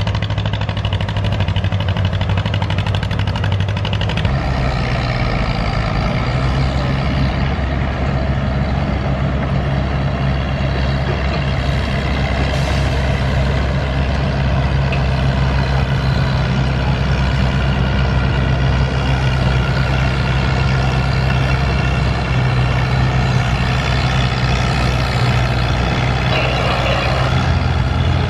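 John Deere MC tractor engine running steadily under load while pulling the sled, its note shifting about four seconds in.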